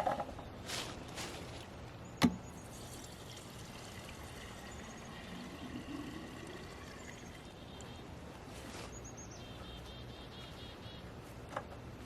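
Fuel being poured into a chainsaw's fuel tank, a faint steady trickle, with one sharp knock about two seconds in.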